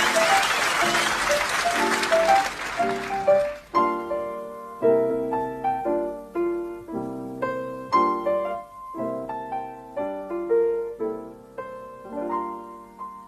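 Audience applause over piano music; the applause cuts off sharply about four seconds in, leaving solo piano playing a slow run of chords.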